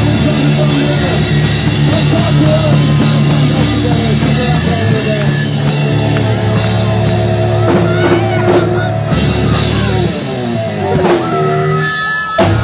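Live thrash/rock band playing loud, with distorted guitars, a drum kit and some vocals. The song ends with a final loud hit near the end.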